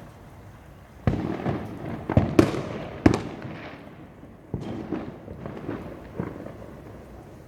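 Fireworks going off: a quick run of sharp bangs starting about a second in, then a second group of bangs about four and a half seconds in, each trailing off in a rumbling echo.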